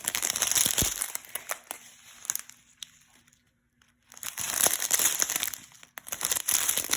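Small plastic bags of square diamond-painting drills being handled, crinkling with small clicks, in three bursts with a short quiet gap about three seconds in.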